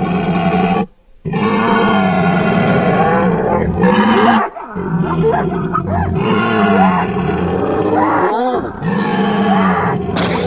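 Creature sound effect built from layered bull, rhinoceros, mammoth and monster-roar recordings: about four long roaring calls that bend in pitch, with short breaks between them.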